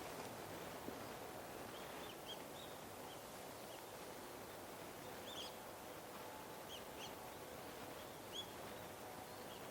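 Small birds giving short, high call notes in scattered clusters of two or three, over steady outdoor background noise.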